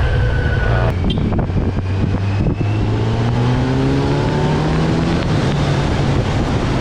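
Kawasaki Z900's inline-four engine accelerating hard in fourth gear, its pitch climbing steadily for a couple of seconds from about two seconds in, then holding level.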